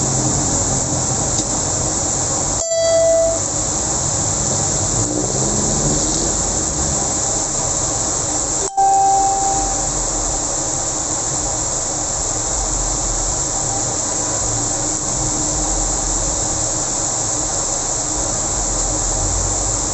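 Heavy rain pouring steadily onto a busy road, with the rumble of passing traffic on the wet surface. Two short horn honks sound, about 3 s and 9 s in.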